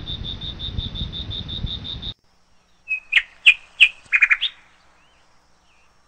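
Rhythmic insect chirping, about five pulses a second over a hiss and low rumble, cuts off suddenly about two seconds in. A second later a small bird gives a quick run of sharp chirps ending in a short trill, the loudest sound here.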